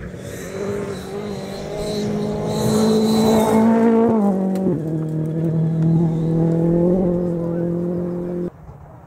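Rally car engine under hard acceleration: the note climbs to a peak, drops sharply about four seconds in at a gear change or lift, then holds steady at a lower pitch before cutting off suddenly near the end.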